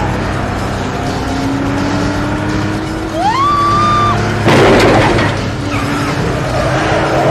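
Movie car-chase soundtrack: car engines running with background music, a tyre squeal that rises and holds for about a second some three seconds in, then a loud crash about half a second later.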